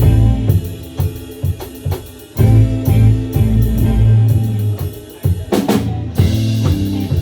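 A band playing in rehearsal: drum kit with snare and bass drum over a bass line and guitar. About five and a half seconds in the drums play a quick fill into a cymbal crash.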